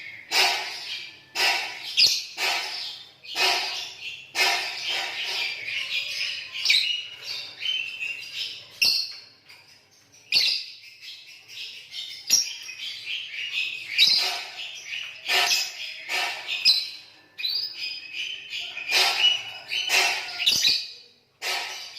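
Lovebirds chattering in long runs of rapid, shrill high chirps, broken by short pauses and a few sharp clicks.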